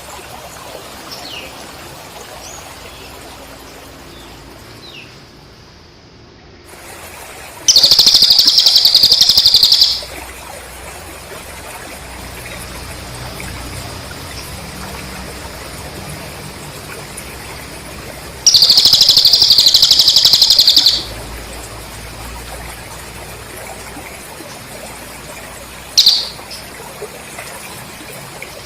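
Recorded cililin bird and cricket song: two loud, rapidly pulsing high trills of about two seconds each, one about eight seconds in and one past the middle, with a few thin falling bird notes before them and a short sharp chirp near the end.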